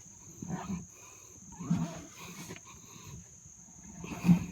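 A man grunting and breathing hard with effort as he shoves a heavily loaded wheelbarrow with a flat tyre through mud: several short low grunts, the loudest near the end.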